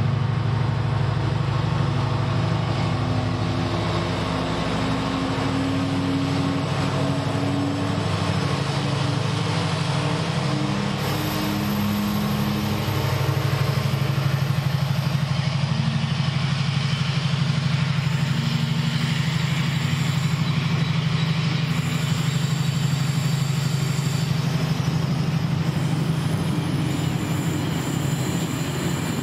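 A train running close by: a steady low drone throughout, with a few higher tones sliding in pitch during roughly the first dozen seconds.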